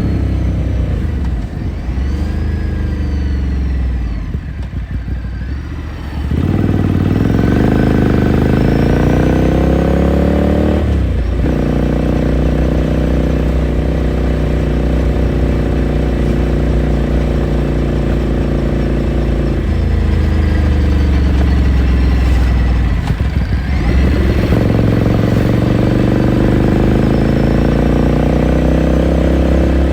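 2018 Ducati Scrambler Sixty2's air-cooled 399 cc L-twin heard from the rider's seat. It slows off the throttle for the first few seconds, then pulls away rising in pitch, with brief breaks for gear changes about 11 seconds in and again past the 23-second mark, each followed by the note climbing again.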